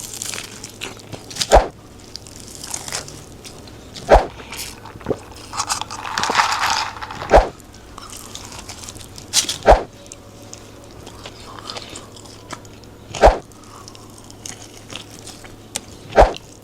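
Close-miked eating of crunchy Burger King fries and hash browns: wet chewing between sharp crunching bites that come every few seconds, six in all.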